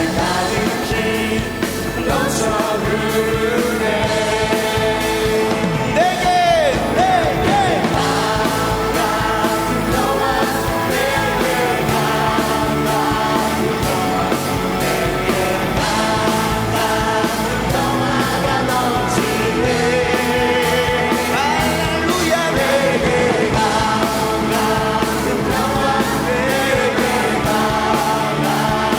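Upbeat Korean praise-and-worship band music with singing over a steady rock drum beat.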